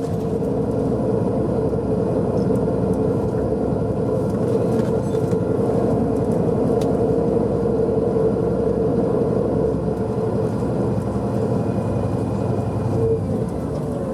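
Tour bus driving, heard from inside the cabin: a steady engine and road rumble with a constant hum.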